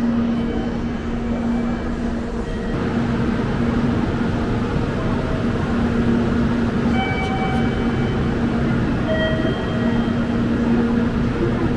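Tokaido Shinkansen train running at speed: a steady rumble and rushing noise with a low hum that drops in and out.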